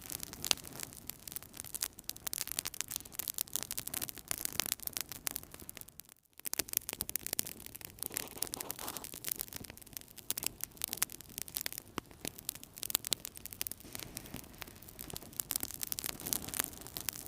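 Wood fire burning in a fireplace, crackling with many quick pops and snaps over a soft hiss. The sound cuts out for a moment about six seconds in.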